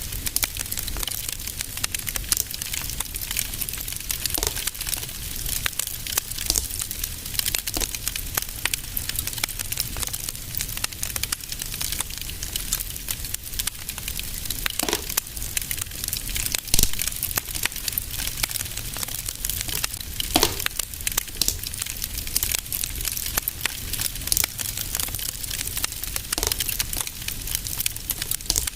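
A fire in a fireplace crackling steadily over a low, even rumble. Thick small crackles are broken by a few louder pops through the middle of the stretch.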